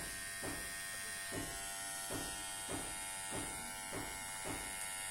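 Kemei KM-809B electric hair clipper running, a steady motor buzz with a faint regular pulse about every two-thirds of a second.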